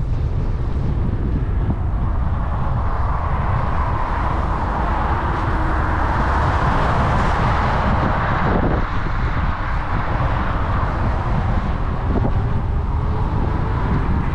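Wind buffeting the microphone and tyre noise as an e-bike rides along a trail, a steady rushing that swells for a few seconds in the middle.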